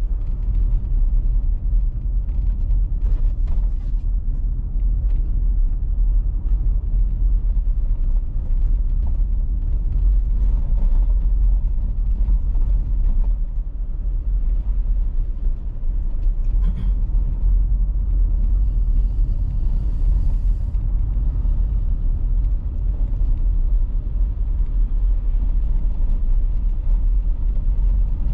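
Steady low rumble of a car on the move: engine and tyre noise on the road. A brief hiss comes a little past the middle, just after a short click.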